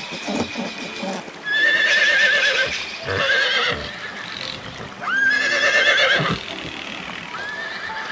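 Horses whinnying: several loud neighs that waver in pitch, the longest starting about a second and a half in and about five seconds in, with a shorter one near the end.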